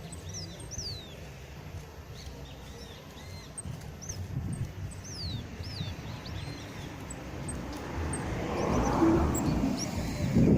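Towa-towa seed finch singing: a run of short, high whistled notes, many sweeping down or arching. About eight seconds in, a louder rushing noise builds beneath it.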